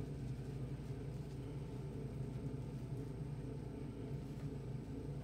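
Steady low rumble with a faint high-pitched whine above it.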